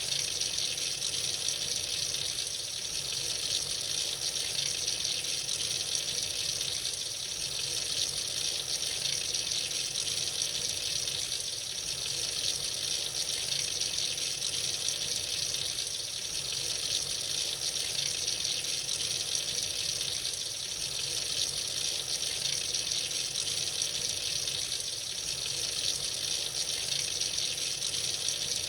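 Tap running freely into a sink, a steady splashing stream of water.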